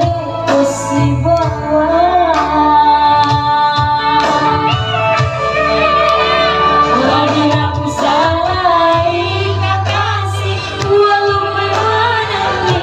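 A woman singing a pop song over amplified band backing, with a melody that bends and holds notes above a steady bass line.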